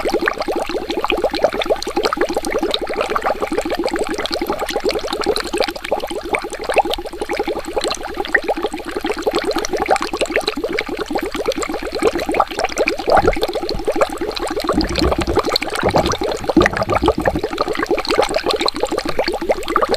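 Water bubbling steadily, a fast, irregular stream of small bubbles gurgling and popping. A few low thumps come through in the second half.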